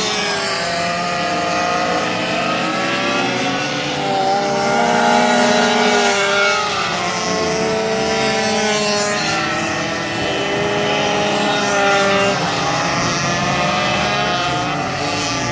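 Several minibike racing engines running hard together, their overlapping pitches rising and falling as the riders accelerate and back off through the corners.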